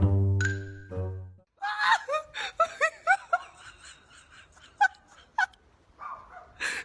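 Music with a plucked bass line ends about a second and a half in, followed by a person laughing in short bursts.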